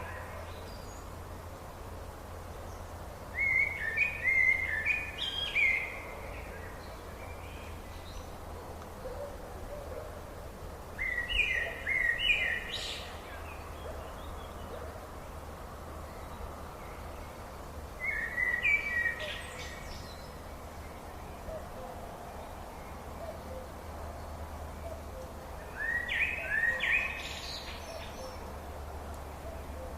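A songbird singing a short phrase of quick stepped notes four times, about every seven seconds, over a steady background hiss.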